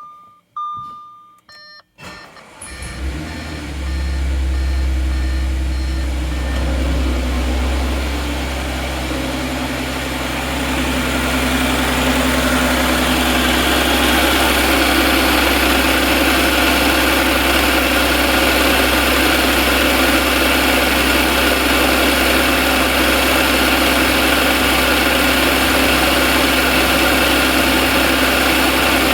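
A few short electronic beeps, then about two and a half seconds in a 2014 Audi S4's supercharged 3.0 V6 starts and idles steadily with a knock, which the owner takes for rod knock from the failed engine.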